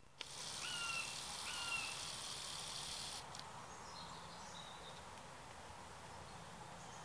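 Two short, even-pitched bird calls, one about half a second in and one just under two seconds in, over a high steady hiss that drops away after about three seconds, leaving faint open-country background noise.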